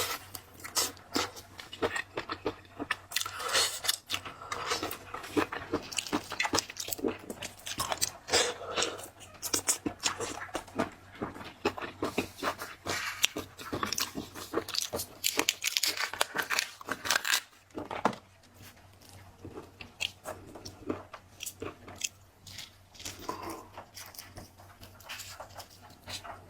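Close-up crunching and chewing of marinated shellfish, with dense irregular cracks of shell and flesh between the teeth. The crunching thins out to quieter, sparser chewing about 18 seconds in.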